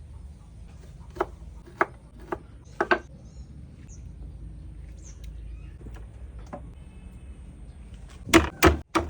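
Kitchen utensils knocking and clinking: a few sharp single knocks spread over the first three seconds, then three loud strikes in quick succession near the end. Faint bird chirps sound in the background.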